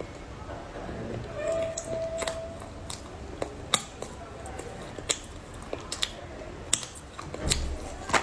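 Crunchy clay being bitten and chewed close to the microphone, with sharp, separate crunches every second or so.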